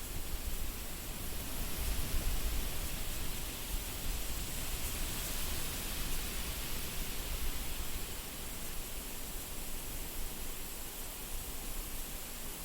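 Wind blowing: a steady rushing hiss over a low rumble, swelling slightly about two seconds in.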